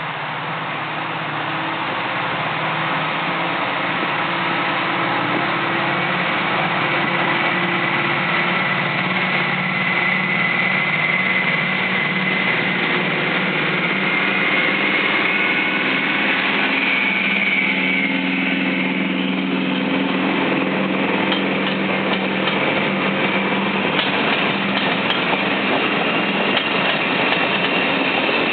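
Diesel locomotive engines running steadily and growing louder as a passenger train approaches, hauled by the Class 55 Deltic D9016 and the Class 40 D335 at either end. Near the end the engines are joined by the sound of the train's wheels on the rails.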